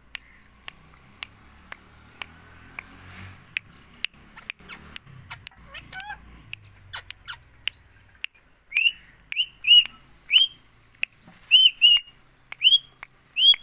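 Pet Indian ringneck parakeet giving a quick run of about nine short, sharp high chirps in the last five seconds, after a stretch of scattered sharp clicks.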